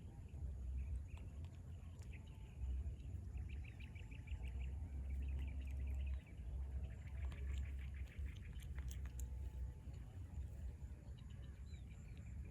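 Rapid trains of short, high animal chirps, twice, over a steady low rumble.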